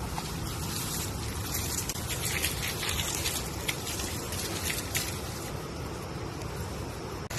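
Rain falling in a forest: a steady wash of noise with many scattered sharp drip taps.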